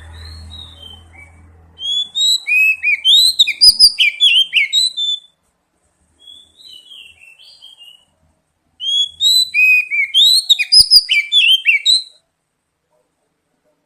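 Oriental magpie-robin (kacer) song: two loud bursts of rapid, varied whistled notes, each about three seconds long, with a softer phrase between them.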